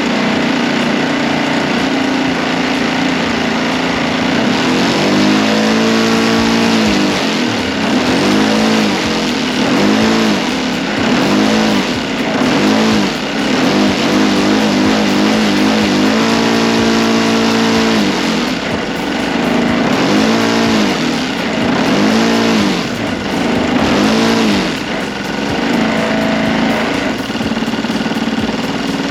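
O.S. GF40 four-stroke gasoline model-airplane engine running, steady at first, then throttled up and down again and again from about five seconds in, its pitch rising and falling in repeated arcs, before settling back to a steady run near the end, as it is being tuned.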